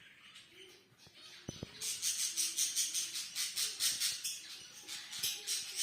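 Small birds chirping in a dense, rapid high-pitched chatter. It starts faint, then turns loud and fast about two seconds in.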